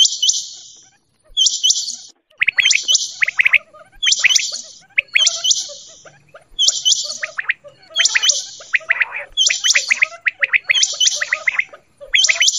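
Quail calling over and over: a short, high call repeated a little faster than once a second, with a quicker run of lower, falling chirps joining about two seconds in.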